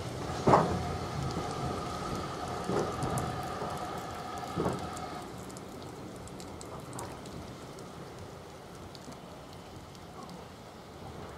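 Passenger train running slowly with its brakes on: a squeal of two steady tones and a few clunks from the couplings, until the squeal stops about five seconds in. After that only a quieter running noise is left, which fades on.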